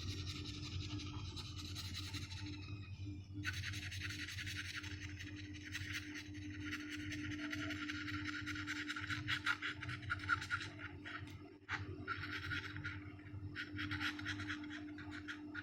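Paintbrush scratching in short, repeated strokes as acrylic paint is brushed onto a wooden bird, over the steady hum of a washing machine running.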